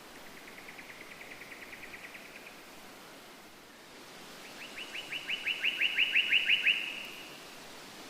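A bird singing two rapid trills of short, repeated notes: a fainter trill at the start and a louder one a little past halfway through, each note sweeping down in pitch. A steady hiss runs underneath.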